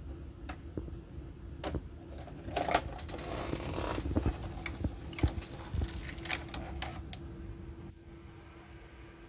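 Sony EDV-8000 ED-Beta VCR tape transport making irregular sharp clicks over a steady hum, with a louder whirring stretch in the middle; the clicks stop about seven seconds in. The clicking goes with a take-up reel that does not turn freely.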